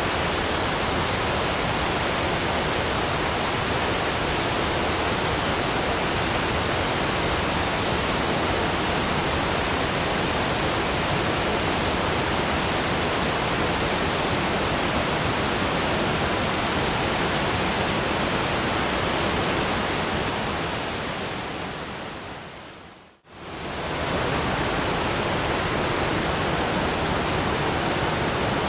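Steady, even rushing noise spread across low and high pitches. Near the end it fades out over about two seconds, drops to silence for a moment, and quickly fades back in, as at a loop point in the track.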